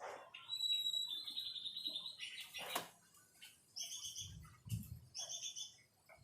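White-rumped shama singing: a varied run of clear whistles and rapid trills, then two repeated double-note phrases in the second half. A soft low thud comes about two-thirds of the way through.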